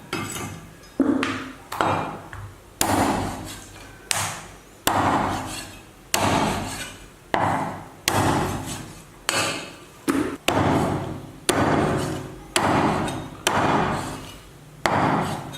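A cleaver hacking a chicken into pieces on a chopping board, about one heavy chop a second, each strike sharp with a short ringing decay.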